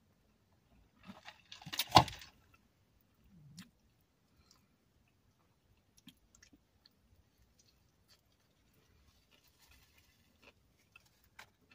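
Close-up eating sounds: chewing and wet mouth noises with scattered small clicks, and a louder burst about two seconds in.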